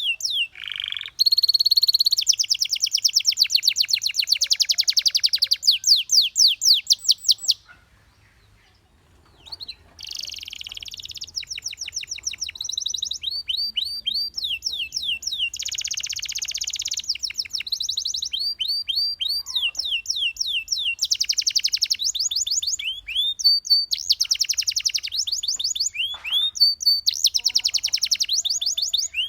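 Domestic canary singing: fast trills and rolls of quickly repeated high notes, with rising sweeps between phrases. The song breaks off for about two seconds roughly a third of the way in.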